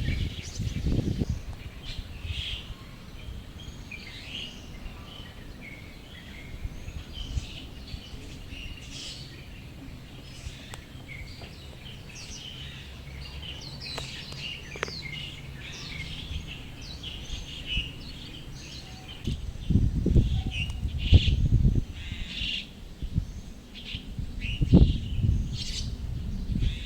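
Birds chirping: many short, high calls in quick succession. Bursts of low rumbling come in over the last several seconds.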